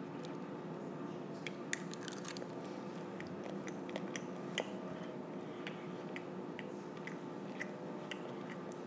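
Child chewing a mouthful of food with her mouth closed: soft, irregular wet clicks and smacks, faint over a steady low hum.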